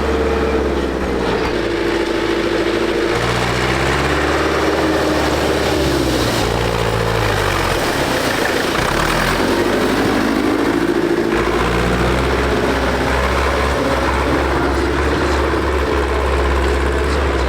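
Tractor engines running at varying speeds, their pitch rising and falling several times over a steady low rumble.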